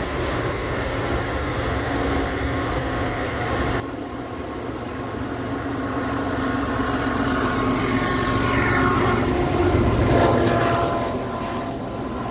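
Train passing, a steady rumble. About four seconds in it drops abruptly, then a droning with several steady tones builds to its loudest about ten seconds in and eases off.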